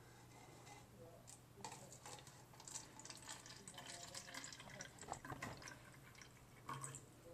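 Faint trickle and drips of liquid being poured from a teapot into a cup.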